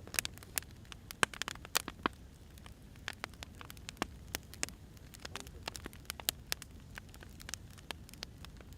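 Wood fire crackling: irregular sharp pops and snaps of burning firewood over a steady low rumble of the flames.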